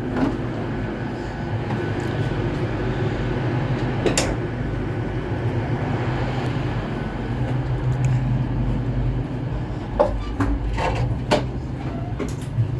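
Steady low hum inside a Great Western Railway Class 802 train standing at the platform, with a few short clicks and knocks.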